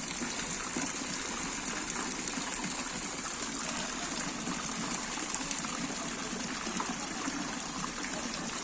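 Water running and splashing steadily at a Balinese petirtaan, the holy-spring water pouring from its spouts into the bathing pool.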